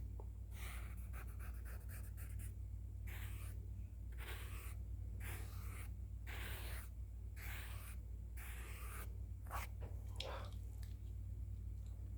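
Soft brushes swept over the microphone in a slow series of separate swishes, roughly one a second, with a steady low hum underneath.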